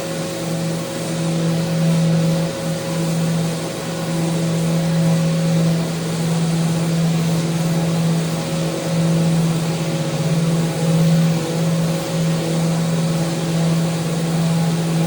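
Electric power sander running steadily on a handrail: a constant motor hum with the hiss of the abrasive over it, wavering slightly in level.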